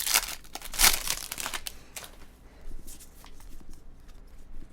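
Trading-card pack wrappers crinkling and cards being handled and shuffled through by hand, busiest and loudest in the first two seconds, then fainter rustling and light clicks.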